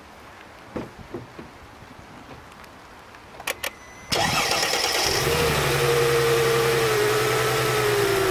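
A car's V6 engine starts about halfway through, after a couple of small clicks, and runs with a steady hum and a whine that drifts slightly lower. It is running rough, misfiring on the cylinders whose ignition coils are unplugged.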